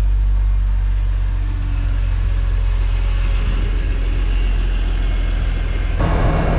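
BMW E46 M3's S54 straight-six idling steadily just after a start, run so that fresh oil cycles through a newly fitted oil cooler. Near the end the sound gets louder and brighter.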